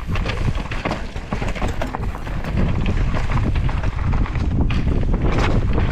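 Devinci Chainsaw downhill mountain bike descending a dirt trail: wind rushing over the microphone and a steady rumble of tyres over the ground, with many quick rattles and clacks from the bike. It gets louder about halfway through.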